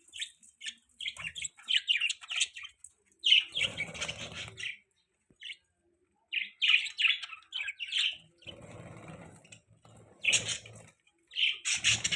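Budgerigars chirping in quick bursts of short, high chirps, broken by brief pauses. At times a rougher rustling sound runs under the chirps.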